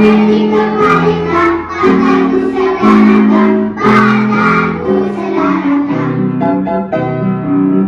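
A group of young children singing a song together, with instrumental accompaniment.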